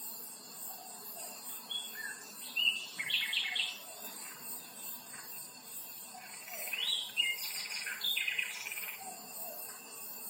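Wild birds calling and singing in short chirping phrases, with a flurry of calls about three seconds in and another from about six to nine seconds in. A steady, high pulsing buzz, like insects, runs underneath.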